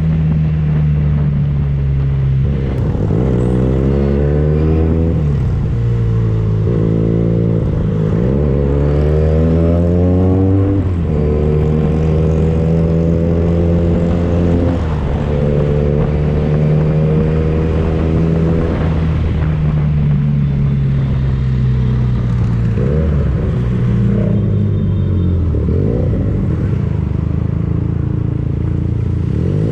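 Benelli TNT 249S single-cylinder engine through a Tridente F22 carbon exhaust, under way. The revs climb twice in the first ten seconds or so as it accelerates, then hold steady. They fall away and pick up briefly again near the end.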